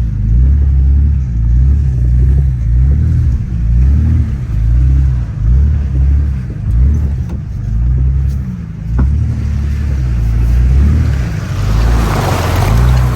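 Jeep Grand Cherokee WJ engine pulling the lifted 4x4 through deep mud and floodwater, its low rumble rising and falling with the throttle. Near the end, a rush of splashing water swells up.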